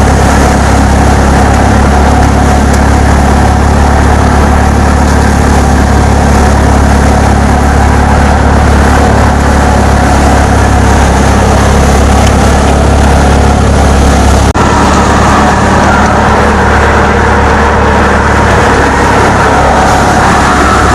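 Swaraj 960 FE tractor's diesel engine running at a steady speed, driving a paddy thresher, with the thresher's clatter and whir over the engine hum. About two-thirds of the way through the sound drops for an instant and comes back slightly changed.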